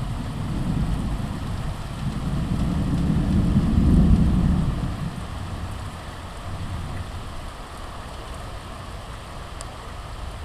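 Thunder rumbling over steady heavy rain, swelling to a peak about four seconds in and then dying away.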